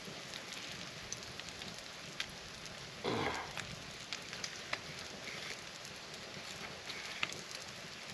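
Campfire crackling, with scattered sharp pops over a steady hiss. About three seconds in there is a brief, louder noise.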